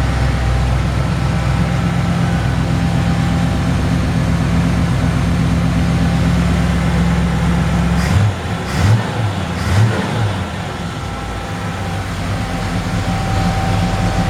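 The 1955 Willys station wagon's engine runs steadily, still warming up after a cold start. About eight seconds in the throttle is blipped three times in quick succession, then the engine settles back to idle.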